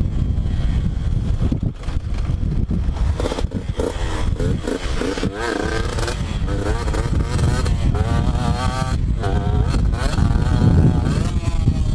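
Two-stroke dirt bike engine being ridden, its pitch rising and falling quickly as it revs up and down, over a heavy low rumble.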